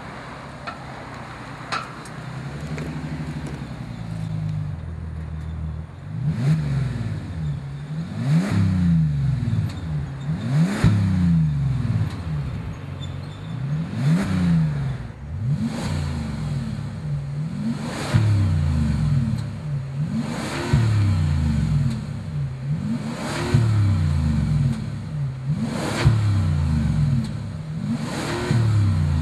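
2007 Bentley Continental GTC's twin-turbo W12 engine, breathing through a secondary cat-bypass X-pipe and muffler bypass pipes. It idles for a few seconds, then from about six seconds in it is revved in repeated blips about every two seconds, each rising and falling in pitch.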